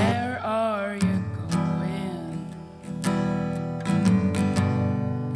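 Acoustic guitar strummed in a steady rhythm under a woman's singing voice, which holds a wavering note in the first second and comes in more faintly again about two seconds in.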